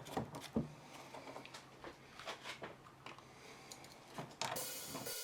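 Small clicks and knocks of a screwdriver turning screws and handling the plastic housing of a suitcase handle. A steady hiss comes in near the end.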